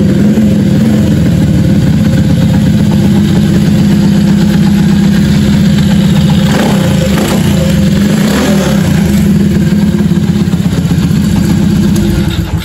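A 90 cc Honda motorcycle engine running close by, mostly a steady idle, its pitch rising and falling a few times in the middle as the throttle is blipped. It cuts off near the end. The seller calls the engine sound.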